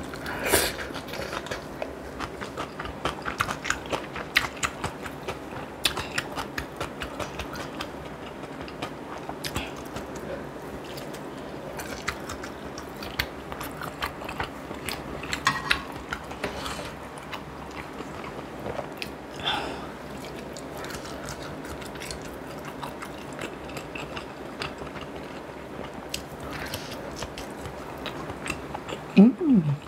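Close-miked chewing and biting of food, with wet mouth noises and scattered small clicks and crunches at an unhurried eating pace. Near the end there is a short, louder low sound that falls in pitch.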